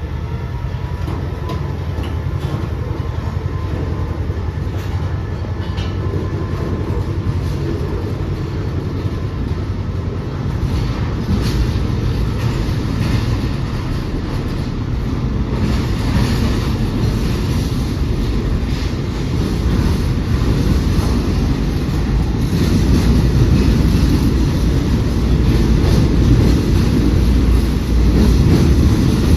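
Train running on the track: a steady low rumble with wheel clicks over the rail joints, growing gradually louder.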